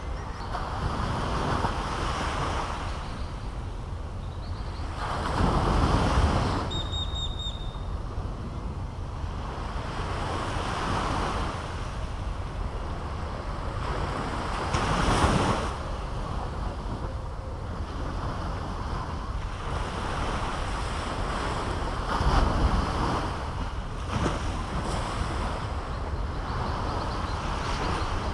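Caribbean Sea surf breaking and washing on a beach, with louder swells about six seconds in, around fifteen seconds and around twenty-two seconds, and wind rumbling on the microphone.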